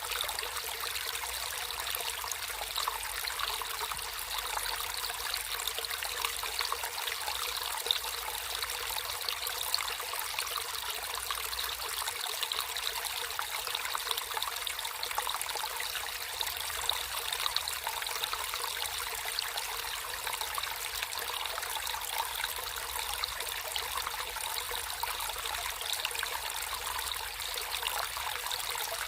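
Water flowing and trickling steadily in a small stream, a continuous bright splashing with many small droplet sounds.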